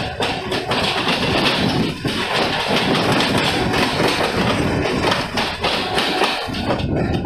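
Mumbai suburban electric local train running along the track, heard from its open doorway: a steady, loud noise of wheels and carriage.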